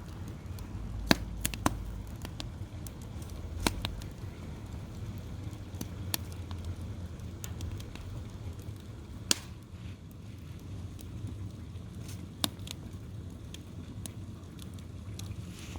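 Wood fire crackling, with about half a dozen sharp pops scattered through it, over a steady low rumble.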